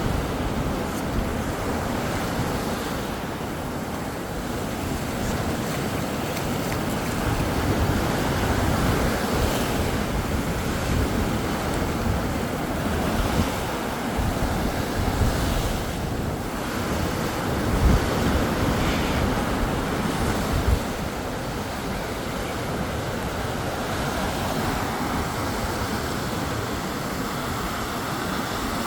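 Sea surf washing onto the beach in a steady, surging rush, with wind buffeting the microphone in low thumps.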